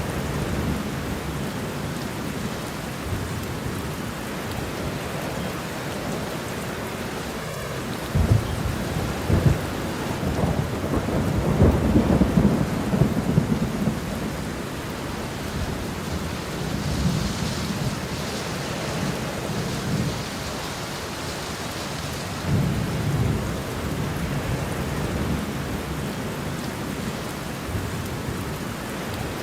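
Steady rain with thunder rumbling through it: a long, loud roll of thunder about eight to fourteen seconds in, and a shorter rumble a little past twenty seconds.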